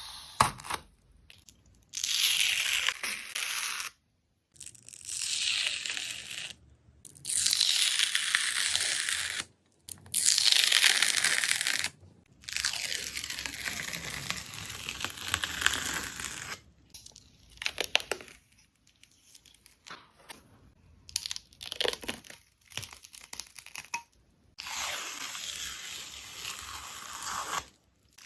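A thin dried skin-like film being peeled and torn away in repeated strokes, each a hissing rip lasting one to three seconds, with short pauses between. A run of sharp crackles comes about two-thirds of the way through.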